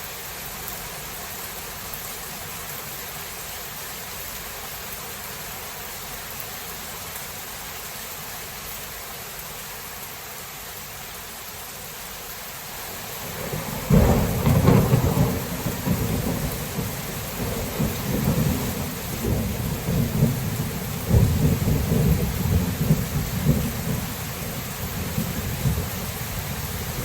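Thunderstorm: steady rain hiss, then about halfway through a sudden thunderclap that rolls on into long, uneven low rumbling, swelling again a few seconds later, with the rain continuing underneath.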